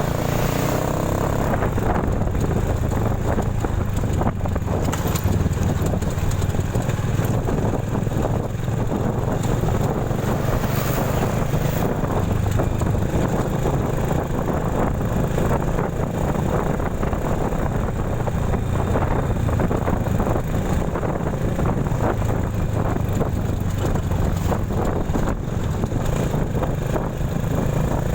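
A vehicle's engine running steadily while travelling along a road, with a constant low hum and road noise.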